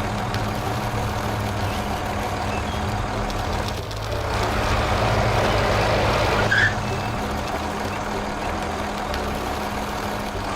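A steady low engine hum, like a small tractor running. Partway through, a louder rushing noise joins it for about two and a half seconds and ends with a brief sharp sound.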